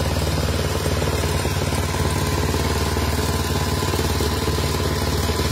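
An engine running steadily at a constant speed: a low rumble with rapid, even pulsing.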